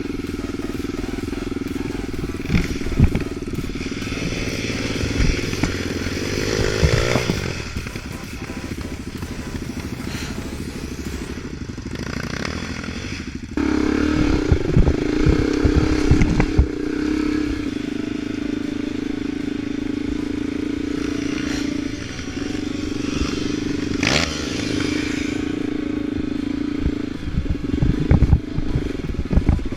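Off-road vehicle engine running under varying throttle, its note stepping up and getting louder about thirteen seconds in, with scattered knocks and clatter.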